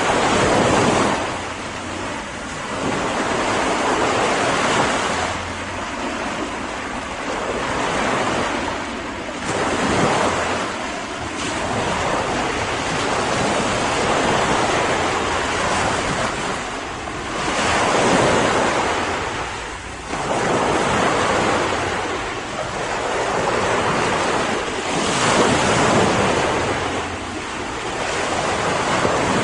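Ocean surf: waves breaking and washing in over a continuous hiss, surging louder every several seconds.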